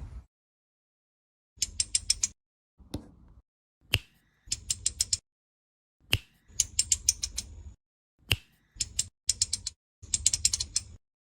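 Short bursts of quick mechanical clicking, several clicks at a time, repeated about eight times with silent gaps, mixed with a few single sharp clicks.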